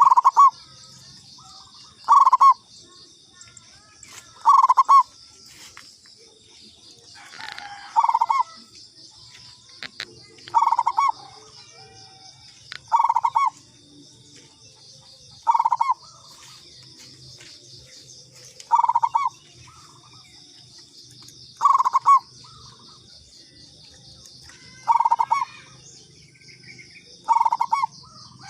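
Zebra dove (perkutut) cooing: a short phrase of about half a second, repeated regularly about every two and a half to three seconds, over a steady high-pitched pulsing trill in the background.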